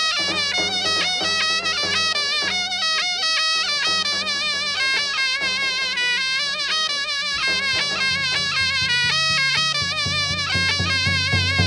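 A zurna (Turkish folk shawm) plays a loud, ornamented folk melody with quick trills and wavering notes, over a low steady backing and davul drum beats.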